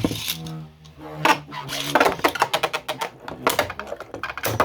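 3D-printed Beyblade spinning tops in a plastic stadium: a steady whirring hum for about the first two seconds, then rapid clacking as the tops hit each other.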